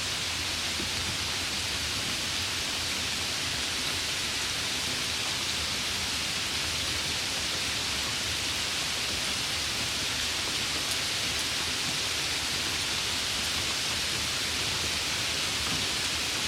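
Steady rain noise, an even hiss without distinct drops or thunder, for sleep.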